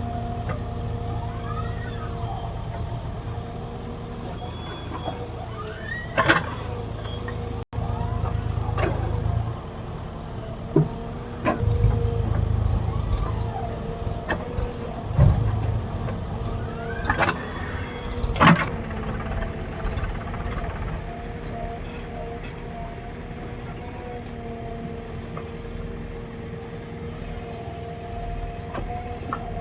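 Diesel engine of a backhoe loader working, a steady low rumble with a constant whine, broken by a few sharp clanks and knocks.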